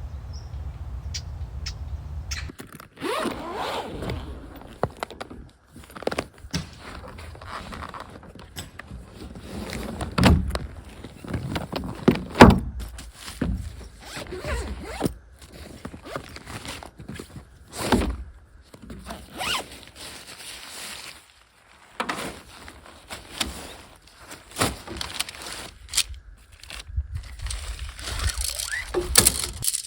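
Camping gear being unpacked from a carrier suitcase by hand: zips opening, irregular thunks and knocks of gear being set down, and the rustle and scrape of bags and fabric.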